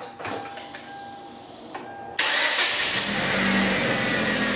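Faint clicks, then the 2011 Hyundai Genesis Coupe's 2.0-litre turbocharged four-cylinder is started: the starter cranks briefly about two seconds in and the engine catches a second later, settling into a steady idle. It is being restarted and run up to warm after a fresh oil change and coolant refill.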